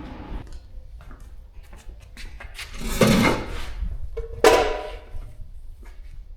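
Tools and metal parts being handled: scattered clicks, then two louder clattering scrapes about a second and a half apart, the second with a brief metallic ring.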